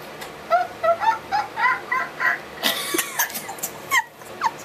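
Pet bird calling: a quick run of about seven short chirps, then a harsh squawk and two brief sliding calls near the end.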